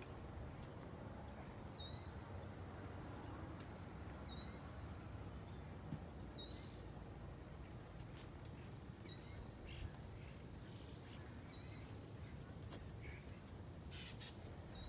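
A bird repeating a short, high call about every two and a half seconds, over a steady low background rumble of outdoor noise.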